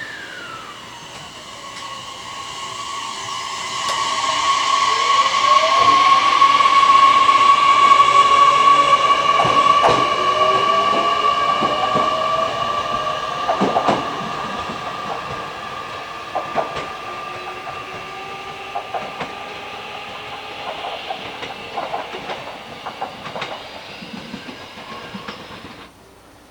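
Train moving through a station: a steady high whine with rising tones, loudest about eight seconds in, then fading with scattered clicks of wheels crossing rail joints. It cuts off suddenly near the end.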